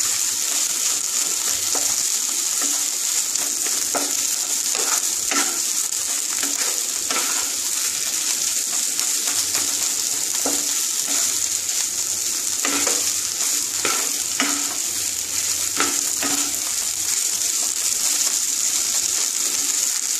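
Mashed-potato chop filling sizzling in oil in a non-stick kadai while a wooden spatula stirs and mashes it. There is a steady high hiss, with irregular knocks and scrapes of the spatula against the pan.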